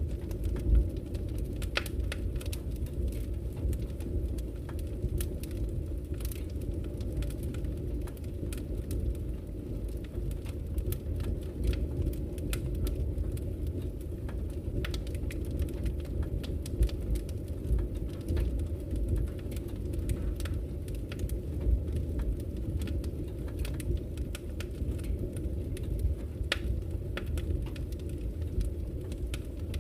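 Wood fire burning in a fireplace: a steady low rumble with frequent, irregular sharp crackles and pops from the burning logs.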